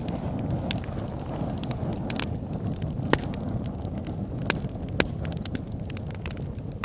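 Wood bonfire burning: a steady low rush of flames with frequent sharp crackles and pops from the burning wood, two of them louder, about three and five seconds in.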